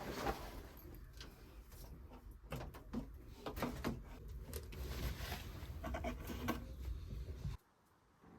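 Irregular wooden knocks, clatter and scraping, as of firewood being handled and put into a stove, over a low steady rumble; it all cuts off abruptly near the end.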